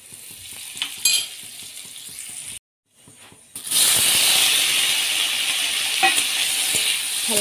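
Paneer cubes frying in butter in a steel kadai: a faint sizzle of melting butter with a light knock about a second in, then, after a brief dropout, a loud steady sizzle as the cubes hit the hot butter.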